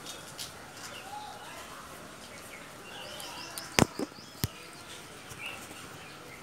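Small birds chirping in the background, short high chirps scattered through. A little past halfway come two sharp clicks about half a second apart.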